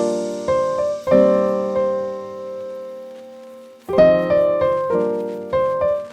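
Background piano music: gentle notes and chords that ring out and fade, with a held chord dying away before a new phrase begins about four seconds in.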